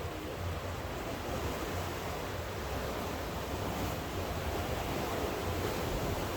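Steady, even rush of rain and sea surf, with some wind buffeting the microphone.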